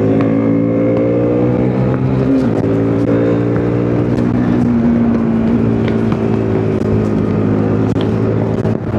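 KTM RC390's single-cylinder four-stroke engine running hard on the road, heard from on board. Its steady note climbs slightly, then breaks and changes pitch about two and a half seconds in and again around five and a half seconds, as with gear changes at speed.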